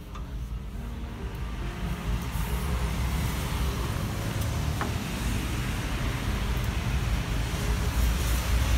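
Rain falling, a dense hiss that builds in loudness over the first few seconds and then holds, over a low rumble.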